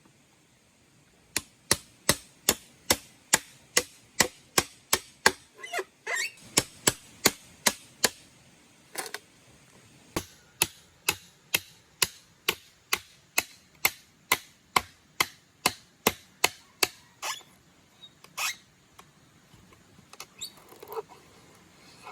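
Rapid, even chopping strokes, about two and a half a second, in two long runs with a short pause between, then a few scattered knocks near the end.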